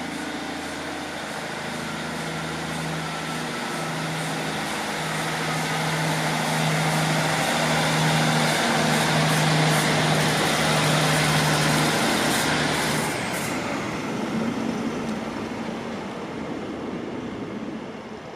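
A train passing: a steady hum and a rushing noise build over several seconds, then drop away sharply about thirteen seconds in and fade.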